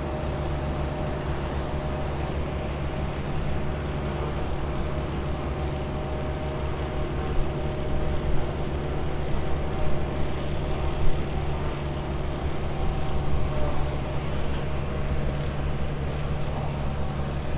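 Alpine tractor's engine running steadily while it works the grass, a constant low drone with a few small surges in level.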